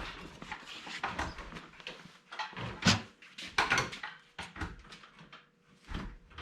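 Irregular clunks and knocks of heavy metal parts being shifted and set in place during an engine and transmission swap.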